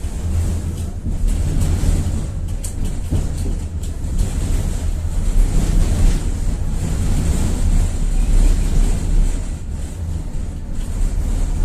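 Tatra-Yug K1M tram running along the track, heard from inside the car: a steady low rumble of the running gear, with a few light clicks in the first few seconds.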